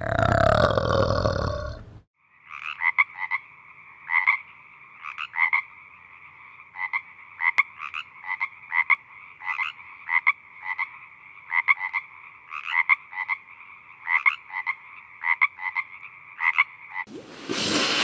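Animal calls. A loud call fills the first two seconds. Then comes steady calling on two pitches, broken by irregular sharp pulses about one or two a second. A louder sound starts near the end.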